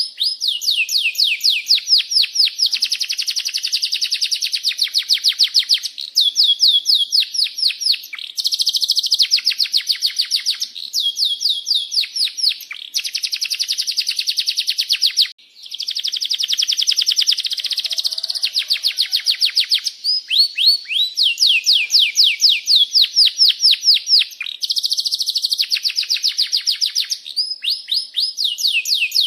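Domestic canary singing long, fast phrases of repeated downward-sweeping chirps and rolling trills, one phrase running into the next, with a brief pause about halfway through.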